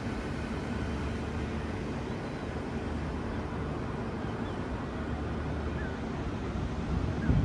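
Wind buffeting the microphone over a steady low rumble, with a louder gust near the end.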